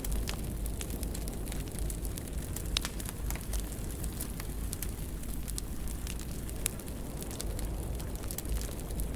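Wood fire burning in a fireplace: a steady low rumble of flame with frequent irregular crackles and pops from the burning logs.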